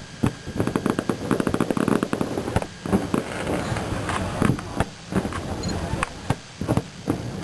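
Fireworks going off in a dense, irregular series of sharp bangs and crackles.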